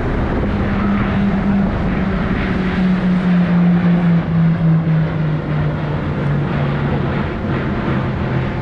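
Airplanes flying past overhead: loud engine noise with a low drone that slowly falls in pitch as they go by.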